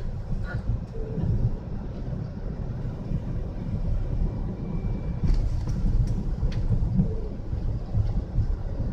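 Car driving in a blizzard, heard from inside the cabin: a steady low rumble of engine, tyre and road noise, with a few small clicks about five and six and a half seconds in.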